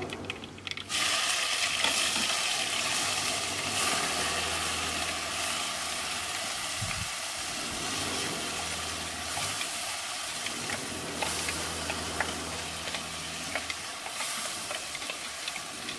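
Onion, garlic, ginger and green chilli paste frying in hot mustard oil in a kadhai: a sizzle that starts suddenly about a second in as the paste goes into the oil, then goes on steadily while it is stirred with a wooden spatula.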